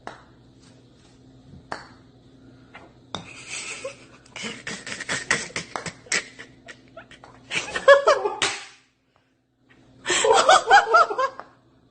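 A person laughing in several bursts, with a faint steady hum underneath.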